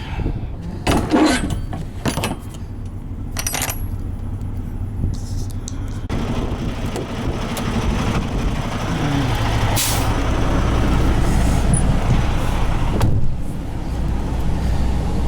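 Semi truck's diesel engine running, louder from about halfway through, with a few knocks in the first seconds and one short sharp burst of air hiss about ten seconds in, typical of the truck's air brakes.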